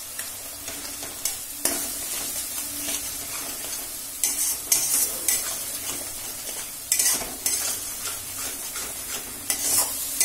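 Spice paste frying in mustard oil in a kadai, sizzling steadily while a metal spatula stirs it and scrapes across the pan, with several louder scraping strokes.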